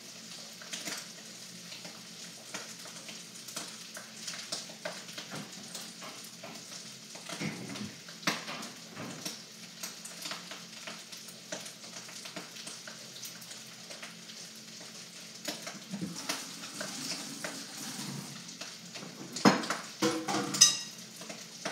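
Fried rice sizzling steadily in a hot wok, with a utensil scraping and clicking against the pan now and then. There are a few louder knocks near the end.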